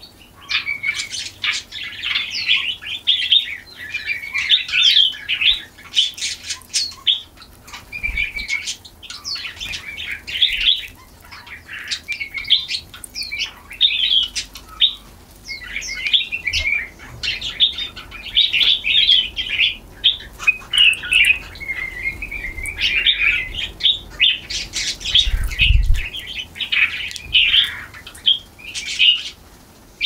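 Small songbirds chirping and twittering in a steady run of quick, overlapping calls.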